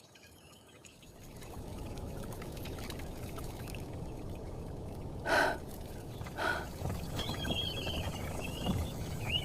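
Steady low rumble of a moving train carriage, fading in after a quiet first second. Two short sounds come about five and six and a half seconds in, and a faint wavering high tone starts near the end.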